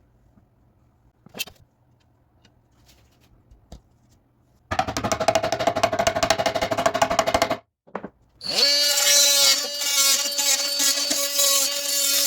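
A power tool run in two bursts: about three seconds of fast, rough buzzing that stops abruptly, then, after a short pause, a motor that spins up with a rising pitch and runs steadily until it cuts off near the end.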